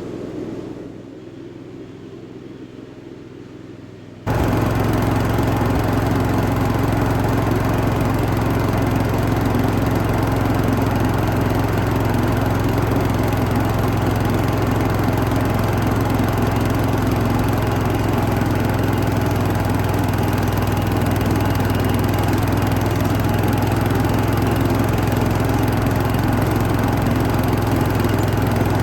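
1978 Cub Cadet 1000 garden tractor's engine running steadily while mowing, with a strong low hum. It becomes suddenly much louder about four seconds in and stays level after that.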